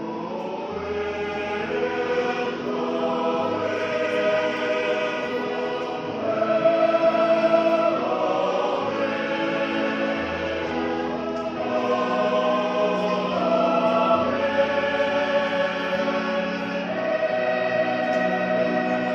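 Church choir singing in several-part harmony, holding long chords that change every second or two, with low bass notes underneath.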